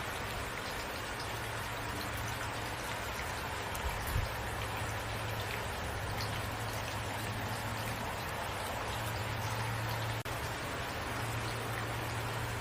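Steady rain falling, with scattered drops ticking and a steady low hum underneath; a couple of soft thumps about four seconds in.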